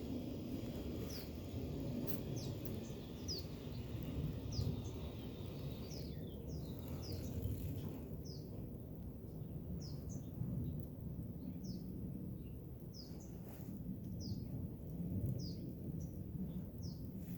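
A small bird chirping repeatedly, short high falling notes about once a second, over a steady low rumbling noise.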